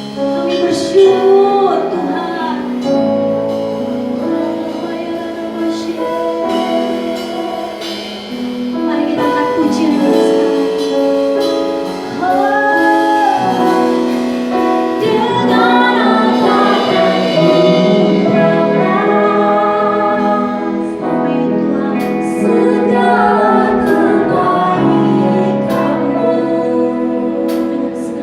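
Worship song: a woman singing over instrumental accompaniment with held chords.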